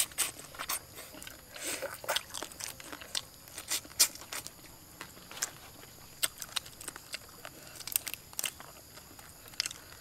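Mouth-close crunching and chewing of cooked shrimp as they are bitten and peeled by hand, with irregular sharp crackles and clicks of cracking shell.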